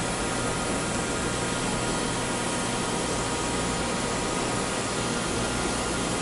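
Machine tool running steadily while machining a metal muffler end from round bar: an even hiss with a low hum and a few steady tones.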